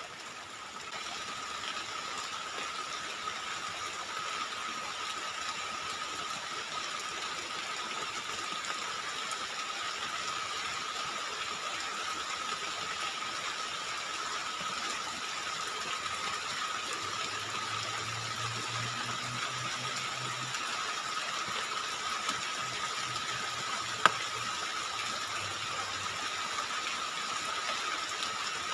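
Heavy rain falling steadily, an even hiss, with a constant high tone running through it. A faint low hum comes in past the middle, and there is a single sharp click near the end.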